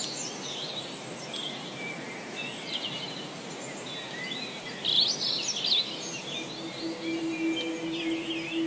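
Several small birds chirping and singing in quick, varied phrases over a steady background hiss. About six and a half seconds in, a steady low sustained tone comes in underneath.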